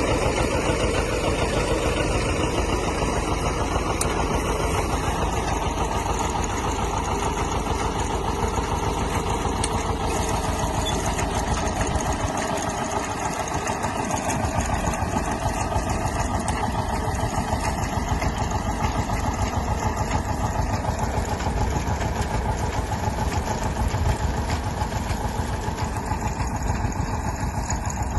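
John Deere 730 diesel tractor's two-cylinder engine running steadily at an even pace.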